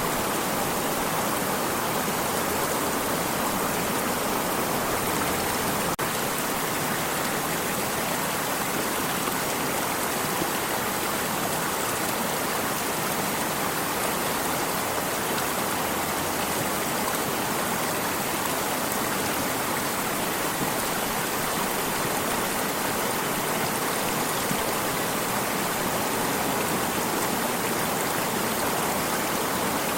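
Water stream flowing steadily, an even rushing splash with no change in level.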